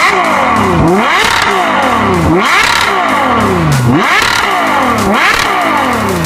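Supercar engine revved repeatedly: four throttle blips about a second and a half apart, each climbing sharply in pitch and falling back.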